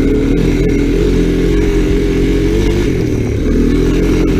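Honda ATC 250SX three-wheeler's engine running under throttle as it is ridden through snow, its pitch holding fairly steady with small rises and dips.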